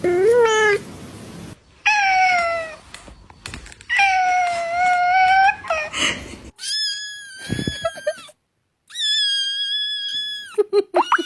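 Cat meowing over and over: about five drawn-out meows of around a second each, the later ones higher and held at a steady pitch, then a few short, quick calls near the end.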